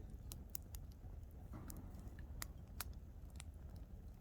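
Wood campfire crackling: several sharp, irregular pops and snaps over a low steady rumble.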